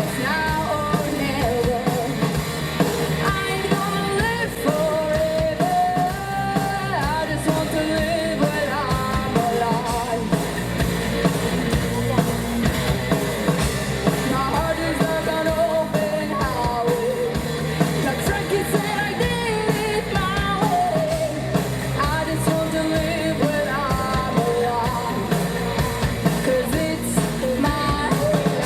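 Live rock band playing through a PA, with a singer's voice carrying the melody over drums, bass and guitar.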